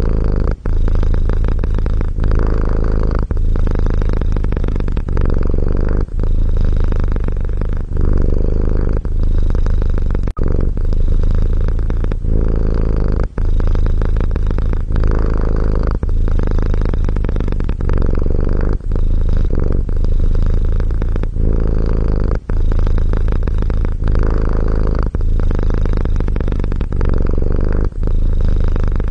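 A cat purring close to the microphone, deep and steady, with a short break about every two seconds as it switches between breathing in and breathing out.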